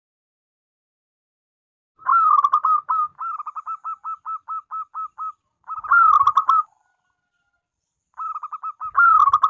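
Zebra dove (perkutut) cooing. After about two seconds of silence comes a loud phrase, then a run of about a dozen softer repeated coos at roughly four a second, then a second loud phrase, and near the end a short run of quick notes leading into a third loud phrase.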